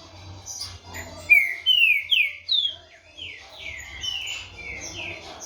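Green-winged saltator (trinca-ferro) singing: a run of loud, slurred whistled notes, each sliding in pitch, loudest from about one to three seconds in.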